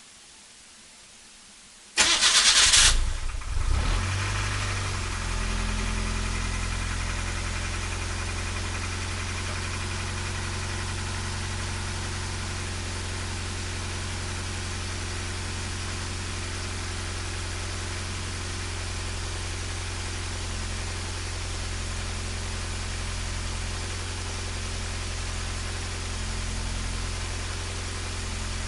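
Turbocharged Nissan Micra engine cold-started: a brief loud crank and catch about two seconds in, unsettled for a couple of seconds, then a steady fast cold idle at about 1300 rpm.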